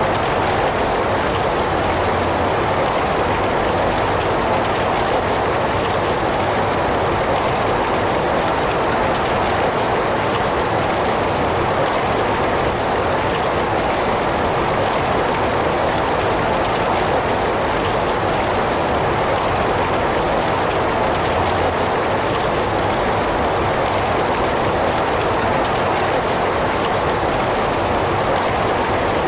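Heavy rain falling steadily, an even, unbroken rush of noise with no thunder or drips standing out.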